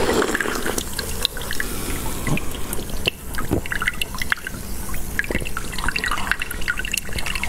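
Close-miked wet chewing and lip smacking on a sauce-soaked piece of food, full of sticky clicks, with sauce dripping into a dish of liquid.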